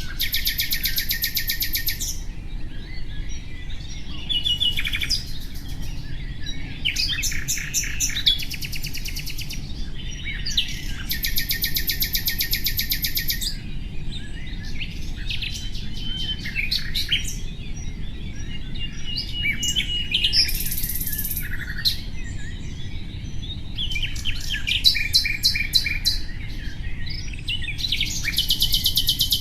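Common nightingale singing: phrase after phrase of very fast, rattling high trills about two seconds long, with short whistles and chirps in the gaps between them.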